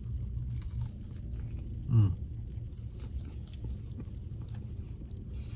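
A person chewing a mouthful of fried chicken sandwich, with faint soft clicks of chewing and one short hummed "mmm" falling in pitch about two seconds in. A steady low rumble inside the car runs underneath.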